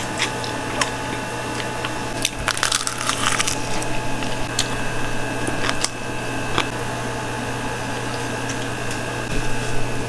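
Steady low hum with scattered small clicks and a brief crinkling, crackling rustle about two and a half seconds in.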